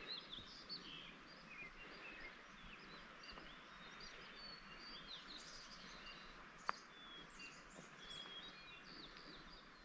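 Faint birdsong: several small birds chirping and whistling in short notes in the trees, over a soft hiss of open air. One sharp click stands out about two-thirds of the way through.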